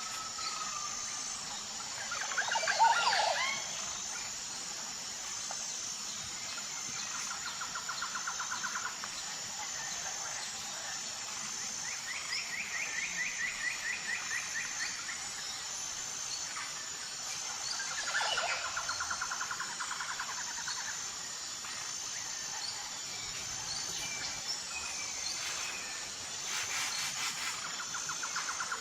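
Tropical forest birds calling over a steady high-pitched insect drone. A loud swooping call comes about three seconds in, followed by rapid trills repeated every few seconds.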